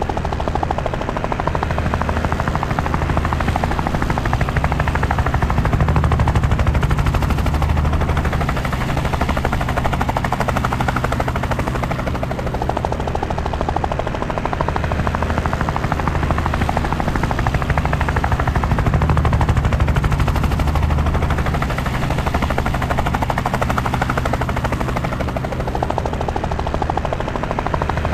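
Helicopter rotor and engine noise: a rapid, steady chop of the rotor blades over a low drone, swelling slightly and easing a couple of times.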